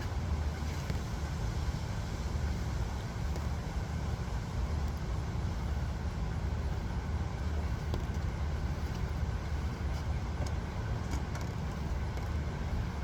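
Steady low rumble of background noise with a faint hiss over it.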